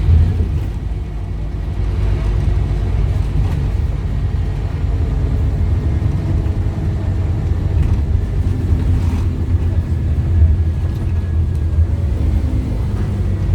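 Scania DC9 five-cylinder diesel engine of a Scania OmniCity double-decker bus running under way: a steady low drone that rises and falls slightly with the engine speed.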